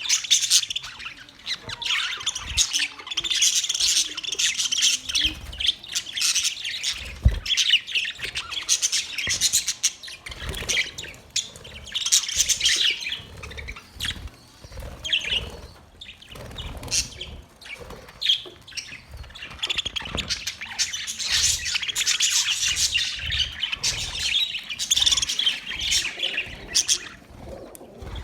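A flock of budgerigars chattering and chirping continuously, many birds at once, with occasional squawks.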